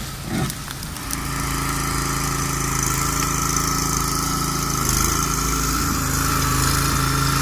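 Small engine of a compact forestry machine running steadily from about a second in, with a slight dip in pitch near the middle.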